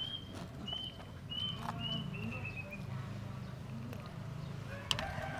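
A bird calling in the background, a run of about five short high notes in the first two and a half seconds. A metal spoon clinks against a steel bowl a couple of times, most sharply near the end.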